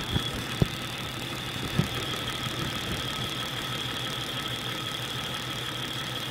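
Jeep 4.0L straight-six idling, heard amplified through an electronic chassis-ear stethoscope clamped at the dipstick tube base near the oil pan, which picks up crankshaft-area noise. The engine runs steadily with a high-pitched whine and a few sharp ticks in the first two seconds. The sounds are highly amplified and not the sign of a major problem.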